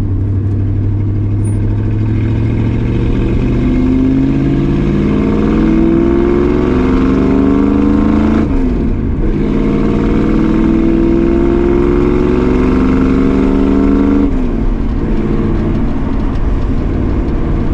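1965 Ford Mustang's 302 V8 accelerating through the gears, its pitch rising, then dropping suddenly at an upshift about halfway through. It climbs again and drops at a second shift about three-quarters of the way in, then holds steady. The exhaust headers have just been resealed to cure a leak.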